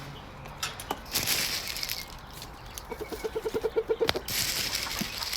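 Chickens at feeding time: a hen gives a quick run of clucks about three seconds in, between two bursts of rustling and scratching.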